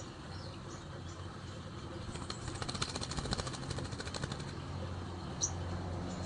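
Short high chirps from a murai air bird, one right at the start and one about five seconds in, with a quick run of sharp ticks from about two to four and a half seconds. A low, steady traffic rumble runs underneath.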